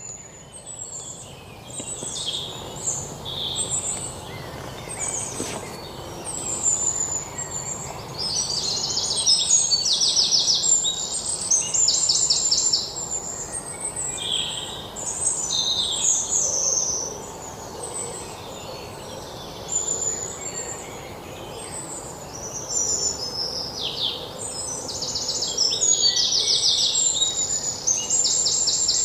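Birds singing and calling, many short chirps and rapid trills overlapping, busiest around the middle and again near the end, over a faint steady background hiss.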